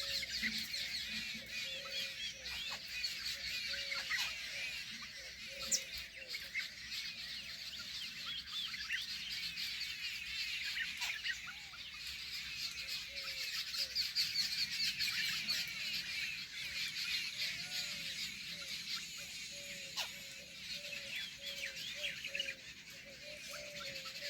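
A dense chorus of many birds chirping, with a lower short call repeating about once a second under it.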